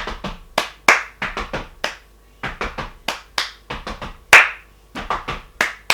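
Rhythmic hand percussion played by a drummer: quick patterns of sharp claps and slaps in short phrases, with brief pauses about two seconds and five seconds in.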